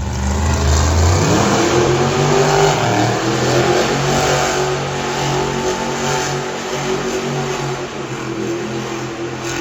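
Monster truck engine revving: the pitch rises about a second in and then holds high, wavering as the throttle works.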